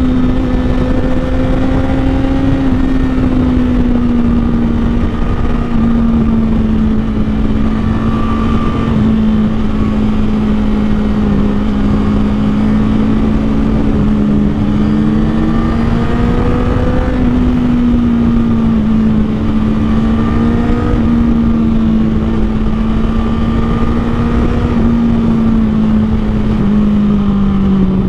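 Honda CBR1000RR Fireblade's inline-four engine, breathing through an aftermarket Taylormade exhaust, running under way at a fairly steady pitch with small rises and dips as the throttle is eased. A loud steady rushing noise runs underneath.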